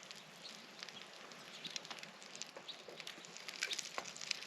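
Faint crackling and sizzling of food frying over a campfire, with scattered sharp little pops.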